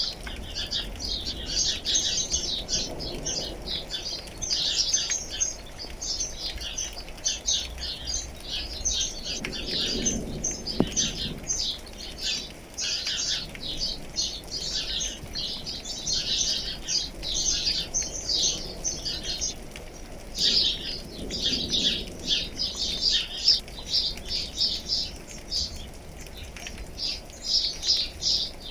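A crowd of small birds chirping and twittering in rapid, dense runs that hardly pause.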